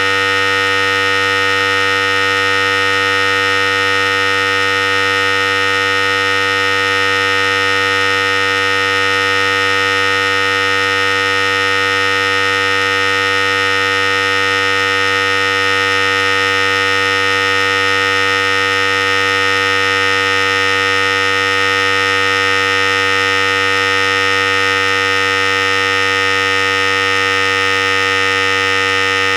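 Philips Series 5000 hair clipper running continuously, a steady, unchanging electric buzz.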